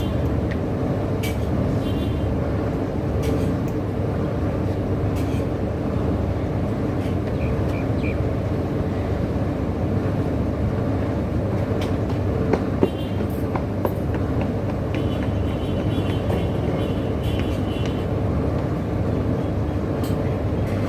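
Steady low rumble of a car on the move, with road and engine noise heard from inside the cabin, and a few faint clicks and high tones over it.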